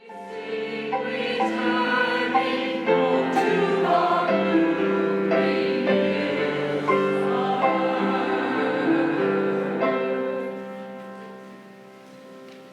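Choir singing sustained chords in harmony. It starts abruptly and fades down about ten seconds in.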